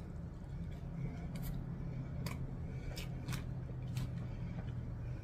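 Close-up chewing of a mouthful of triple cheeseburger, with about six sharp wet mouth clicks and smacks spread through it over a steady low hum.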